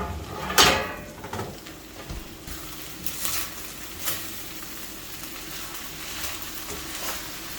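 Rice being stirred into chicken sauce in a pot on the heat: a steady sizzle, with the spoon scraping the pot every second or so, loudest about half a second in.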